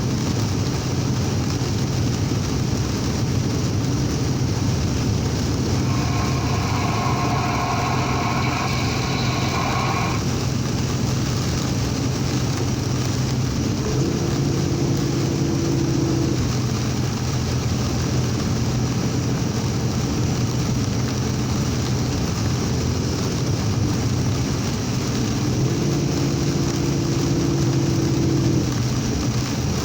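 Steady low drone of a truck's engine and road noise inside the cab while driving through heavy rain, with an even wash of rain and tyre noise. A brief higher tone comes in about six seconds in for roughly four seconds, and a lower hum rises twice later on.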